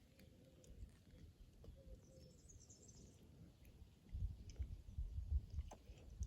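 Faint garden ambience with a brief, high bird chirp, then low rumbling bumps in the second half.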